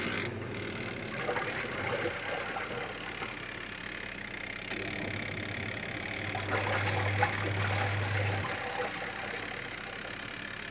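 Twin-tub washing machine's wash motor starting as the wash timer is turned, then running the pulsator with a steady hum and rattle. The hum grows stronger about halfway through and drops back about eight seconds in.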